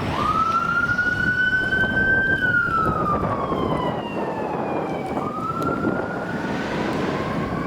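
Fire apparatus siren on a slow wail: the pitch climbs, falls away over a few seconds, and starts climbing again about five seconds in, over steady vehicle and road noise.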